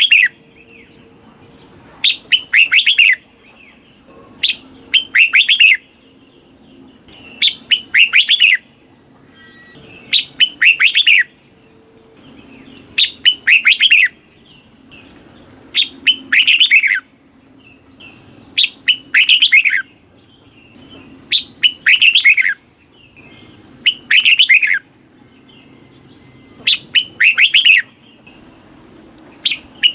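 Red-whiskered bulbul singing: the same short, loud phrase of quick whistled notes ending in a cluster of falling notes, repeated about every two and a half to three seconds. The song is used to stir up caged male bulbuls and make them sing back.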